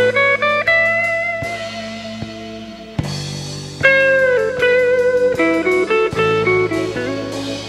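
Instrumental blues: an electric guitar plays a lead of quick stepping note runs, with a sliding note about four seconds in, over sustained bass notes and occasional drum hits.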